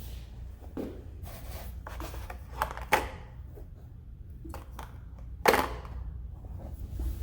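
Scattered sharp clicks and knocks of parts or tools being handled, the loudest about three and five and a half seconds in, over a steady low hum.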